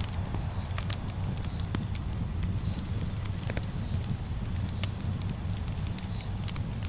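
Campfire crackling, with irregular sharp pops over a steady low rumble, and a short high chirp repeating about once a second.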